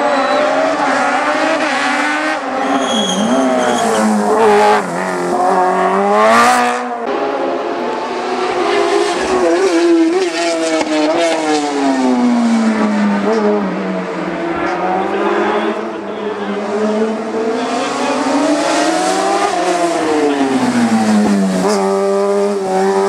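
Race car engine at full effort on a hillclimb, its revs climbing and dropping several times as it is driven hard through the gears and corners. About six seconds in it spikes sharply and cuts off suddenly.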